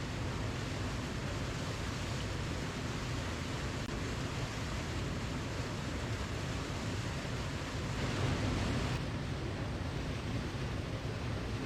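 Waterfall: steady rushing of falling water, swelling slightly for about a second around eight seconds in.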